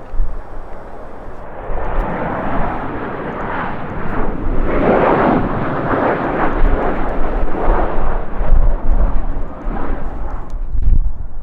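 Jet airliner passing by, its engine roar swelling to a peak midway and fading away, with gusting wind buffeting the microphone throughout.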